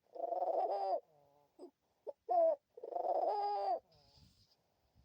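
Pet hen dove cooing: two long drawn-out coos about three seconds apart, with three short clipped notes between them.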